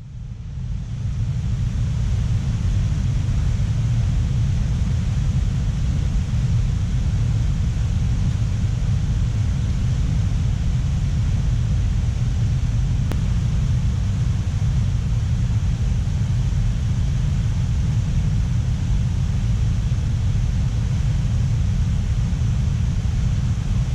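A steady, unchanging low rumble with a fainter hiss above it, fading in over the first second or so.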